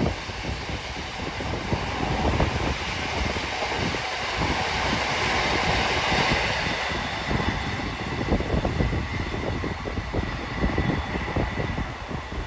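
Freight train hauled by a Class 66 diesel locomotive passing at speed, with a steady rumble and a dense clatter of wagon wheels on the rails, loudest a few seconds in and easing toward the end.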